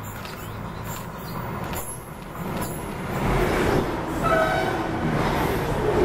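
Passenger train passing the platform at speed: a rising rush and rumble of wheels on rail that peaks as the cars go by. About four seconds in there is a brief high tone.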